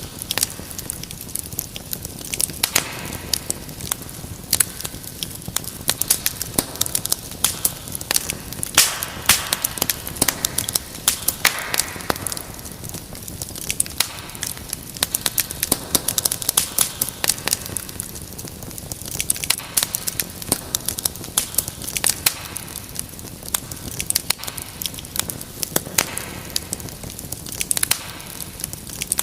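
Fireplace fire crackling and popping steadily, with dense sharp snaps throughout and a soft hiss of the flames that swells now and then.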